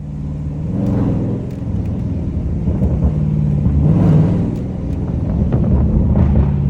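Car engine and exhaust rumbling at a low, steady pitch. The note swells and eases a few times, as with light throttle.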